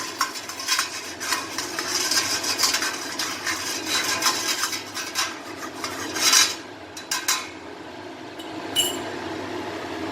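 Utensil scraping and clicking against a perforated plate set over boiling water as a makeshift momo steamer, spreading white oil over it. The busy scraping ends in a louder knock after about six seconds, followed by a couple of taps and a short ringing clink near the end.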